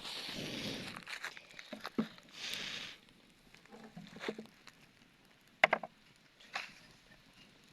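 Rustling of dry sticks and leaves being handled, with a few sharp snaps and knocks. The loudest snap comes about five and a half seconds in.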